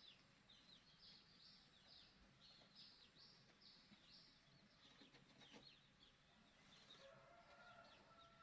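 Faint bird chirping: a quick series of repeated high chirps, about two or three a second, for the first four seconds or so, then scattered chirps over a faint hiss.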